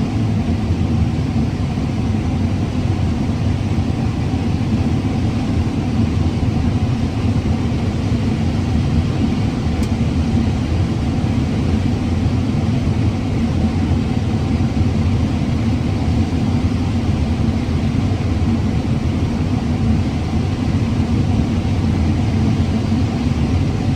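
Combine harvester running steadily while harvesting corn: a continuous low engine and machine rumble that does not change.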